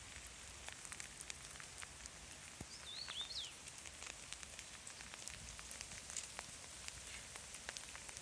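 Rain falling, with many scattered drops ticking close by over a steady hiss. A short warbling bird chirp comes about three seconds in.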